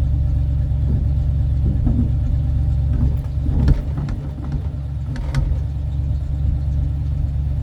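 1984 tow truck's engine idling steadily, with a few short knocks between about three and five and a half seconds in.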